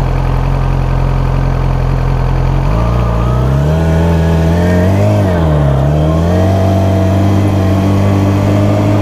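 Motorcycle engine idling steadily, then about three seconds in it pulls away: the pitch climbs, drops briefly and climbs again, then holds steady as the bike rides on.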